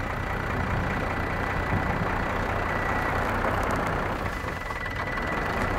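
A steady engine-like running noise: a constant low hum under an even rush, with a faint thin high whine.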